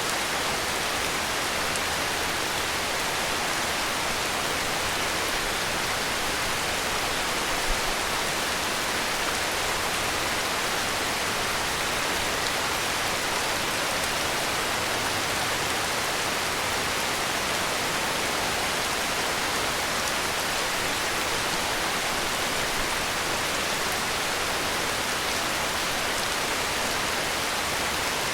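Heavy rain falling steadily, a dense, even hiss with no change in level.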